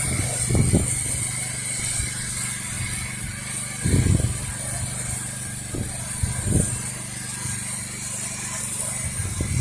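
Pressure-washing rig's engine running steadily at constant speed, with a thin high whine over it and a few brief low bumps.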